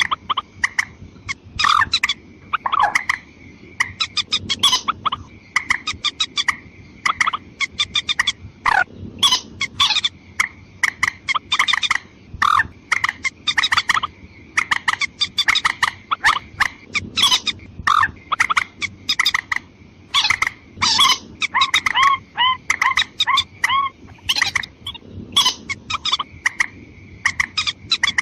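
Rail lure recording of female and male calls: short, sharp clucking calls repeated rapidly throughout, over a faint steady high tone.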